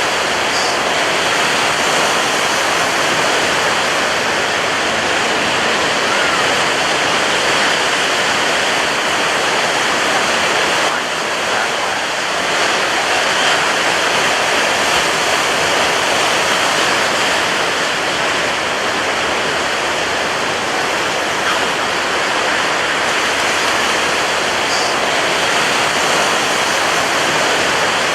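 Ocean surf: a steady, dense rush of breaking waves with little rise and fall, dipping slightly about eleven seconds in.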